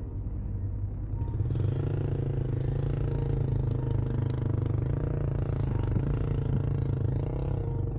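Dual-sport motorcycle engine running, getting louder about a second and a half in and holding there.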